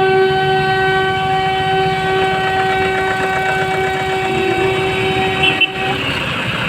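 A vehicle horn held in one long, steady note that cuts off about six seconds in, over a low engine rumble.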